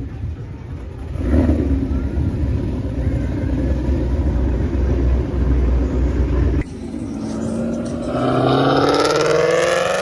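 Car engine rumbling low, then, after an abrupt cut about two-thirds of the way in, a car engine accelerating hard, its note climbing steadily in pitch.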